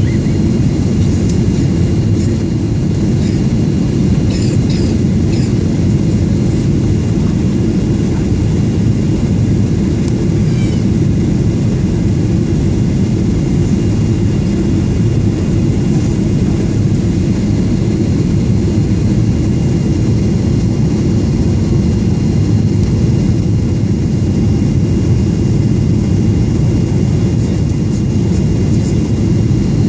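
Cabin noise inside a Boeing 737-800: a steady, loud, low rumble of the engines and airflow heard from the passenger seats.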